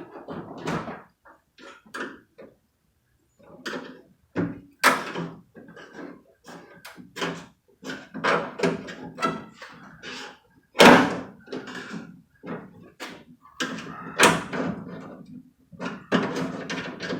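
Irregular knocks and clunks of hands shoving an old inner window weatherstrip (cat whisker) up and out of its clips in a pickup truck door, the door panel thumping with each push. The loudest knocks come about 11 and 14 seconds in.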